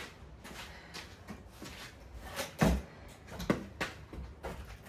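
Heavy timber knocking and thumping as a length of treated sleeper timber is wrestled into place in a bench frame, several separate knocks with the loudest about halfway through.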